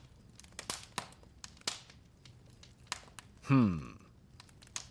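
Light rustling and scattered clicks, then about three and a half seconds in a man's voice sliding down in pitch, a settling sigh.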